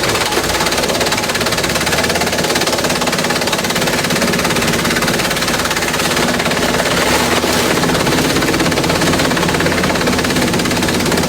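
Industrial shredder chewing through bamboo: a loud, dense, rapid clatter over a steady machine hum, running without a break.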